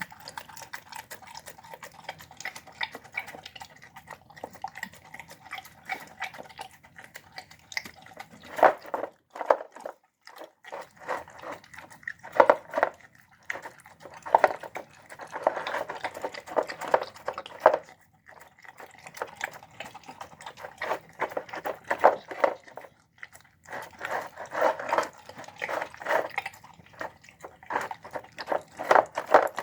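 A dog eating a meal of chicken on the bone, rice, beans and broccoli from a bowl: a dense, irregular run of chewing and smacking sounds, with short pauses about ten seconds in and again near eighteen seconds.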